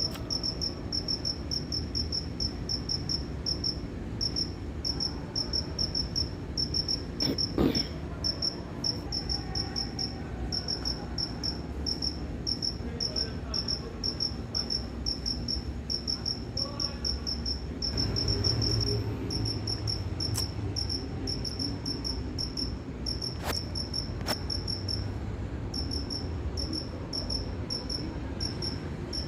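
A cricket chirping steadily, about three short high chirps a second, over a low background rumble. A few sharp clicks come through in the second half.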